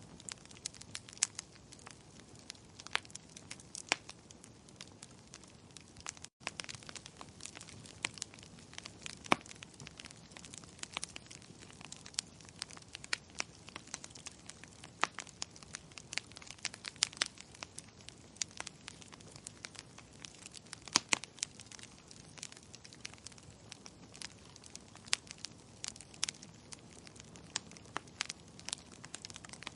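Wood fire crackling in a fireplace: frequent irregular sharp pops and snaps over a soft steady hiss. The sound cuts out for an instant about six seconds in.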